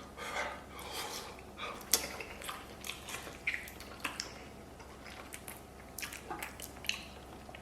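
A man biting and chewing soft braised pig's trotter, with wet mouth sounds and scattered short clicks.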